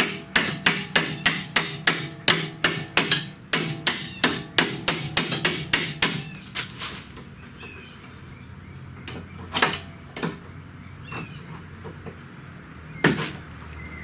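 Hammer blows in a fast, even run of about four strikes a second for some six seconds, then a few single knocks.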